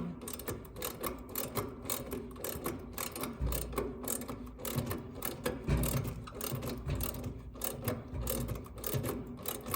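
A ratchet wrench clicking over and over as the service valve on an air conditioner's large suction line is cranked all the way closed, with a few dull knocks among the clicks.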